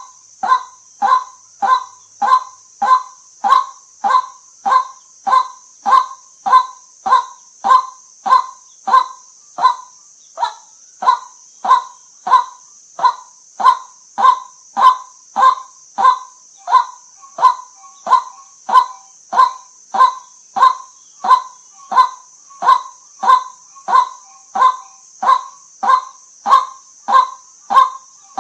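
White-breasted waterhen calling: one short kwak note repeated at an even pace, about one and a half a second, over a steady high hiss.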